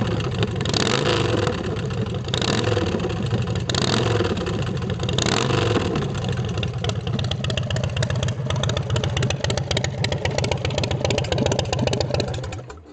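Big Dog Mastiff's carbureted 117 cubic inch S&S V-twin running through 2-into-1 drag pipes. It is blipped four times, about a second and a half apart, then settles to idle and is shut off just before the end.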